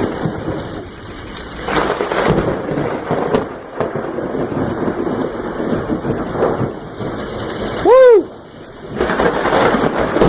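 Thunder rumbling over steady rain, swelling and fading in waves. About eight seconds in comes one short, loud pitched sound that rises and then falls.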